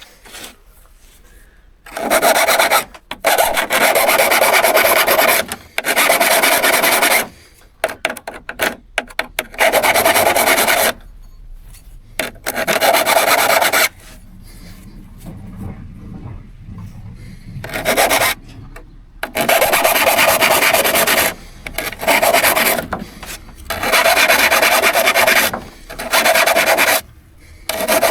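Hand work on a steel saw blade: long scraping strokes of a second or two each, in bouts, with a pause of several seconds midway.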